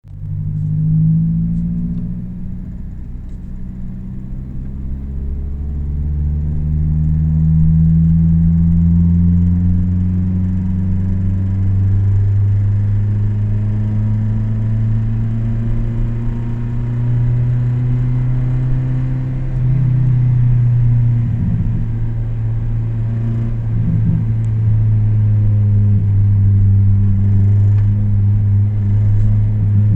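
Toyota Celica's VVT-i four-cylinder engine running steadily at raised revs, its pitch drifting slightly up and down, with a step change about twenty seconds in. The owner reports a rattle from it once the revs climb.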